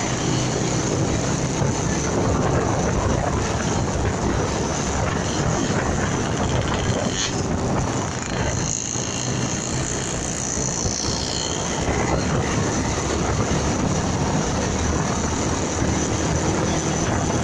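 Motorcycle on the move: steady engine, road and wind noise, easing slightly around eight to ten seconds in.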